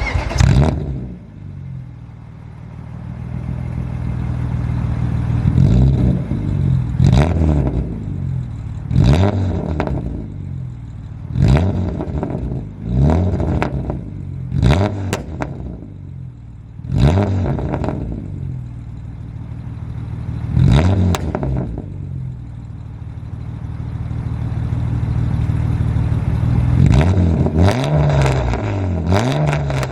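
BMW E36 M3's S50 straight-six through a nearly straight-piped exhaust (cat, resonator and muffler deleted, stock muffler gutted), idling and blipped in free revs about ten times. Each rev climbs and drops back to idle, with sharp cracks and pops on the way down.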